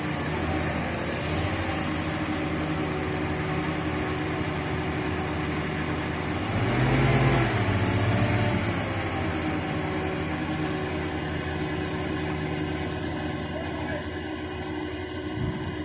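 Truck engine running steadily, revving up louder for a couple of seconds about halfway through before settling back.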